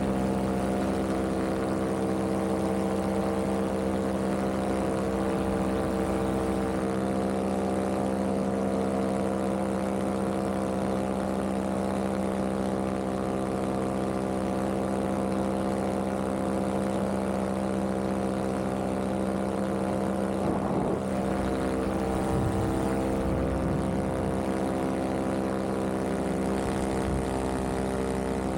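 Vittorazi Moster 185 single-cylinder two-stroke paramotor engine and propeller running at a steady cruise power in flight, holding one even pitch throughout.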